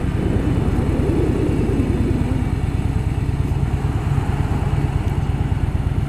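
Harley-Davidson Softail Fat Boy's V-twin engine running at low revs with an even, pulsing beat.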